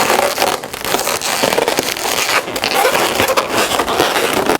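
Inflated latex modelling balloons being twisted and tied together by hand: the rubber rubs and squeaks against itself, with many small sharp clicks.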